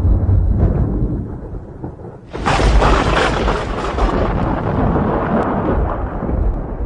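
Thunder: a deep rolling rumble eases off, then a sudden loud crack of thunder breaks about two seconds in and rolls on, fading toward the end.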